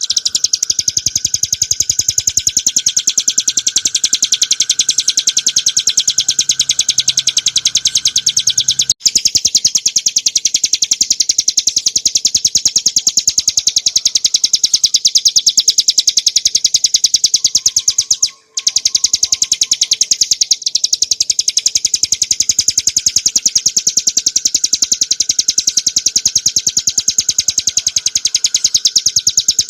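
Ciblek gunung (a prinia) singing: a fast, unbroken string of high, sharp notes, with two very short breaks about nine and eighteen seconds in.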